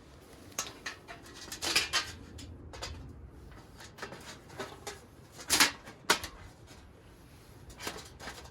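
Scattered short knocks, clinks and rustles of objects being handled, with two louder clusters: one about two seconds in and one around the middle.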